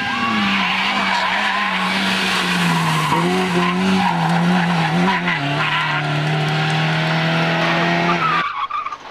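Rally car engine held at high revs, its note dipping and picking up again a few times, over heavy tyre and gravel noise as the car slides. The sound cuts off suddenly near the end.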